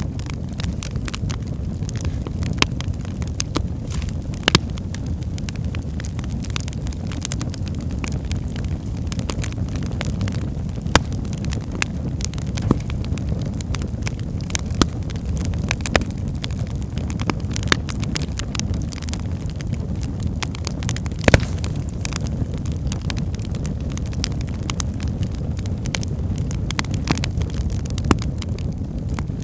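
Wood fire burning in a fireplace: a steady low rumble of flames with frequent irregular crackles and pops from the burning logs, the sharpest pops about four and a half seconds in and about two-thirds of the way through.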